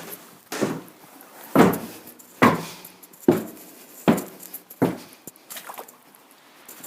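Footsteps on a hard floor inside an echoing enclosed space: about seven steady steps, a little under a second apart, each followed by a brief ringing echo.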